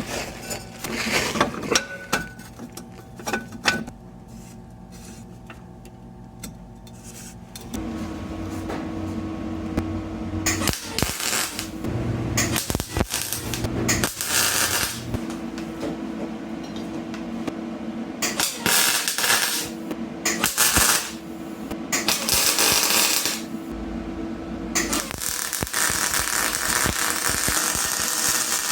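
Exhaust pipe fabrication: metal parts clinking and knocking, then a run of crackling, hissing bursts a second or two long, typical of tack-welding the steel exhaust pipe, over a steady low hum.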